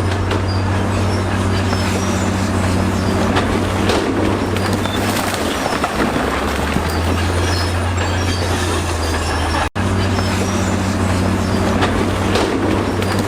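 Komatsu crawler bulldozer working with its diesel engine running steadily under load, its steel tracks clanking and squealing in short high squeaks as it moves. The sound drops out for an instant about ten seconds in.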